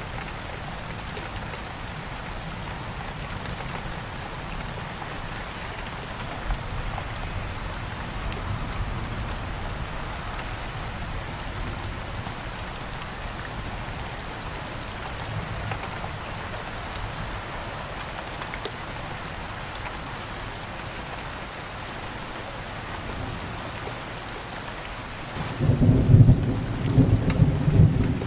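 Heavy rain falling steadily on a window pane, an even hiss. Near the end a loud, low rumble of thunder breaks in for a few seconds over the rain.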